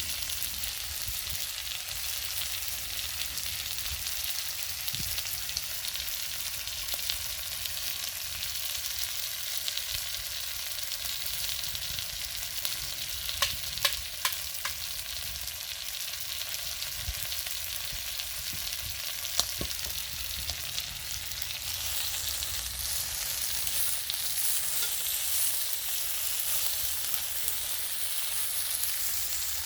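Food sizzling on a grill over a wood fire, a steady hiss, with a few sharp clicks around the middle.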